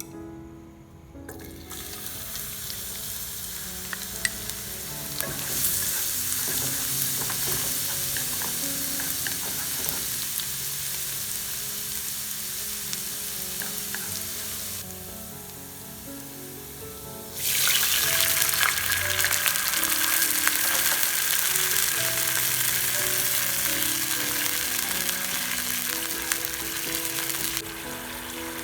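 Quail eggs sizzling in hot oil in a frying pan. The sizzle starts a second or so in and grows louder, eases off briefly around the middle, then returns louder and drops back near the end.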